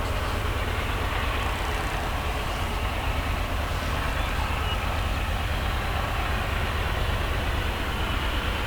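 Union Pacific coal train passing at a steady pace: a continuous rumble of wheels on rail with a low engine drone underneath, unchanging in level.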